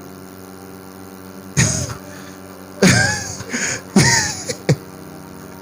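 A woman's short vocal exclamations, a few brief cries or gasps spaced about a second apart, as she bends to test her back, over a steady electrical hum.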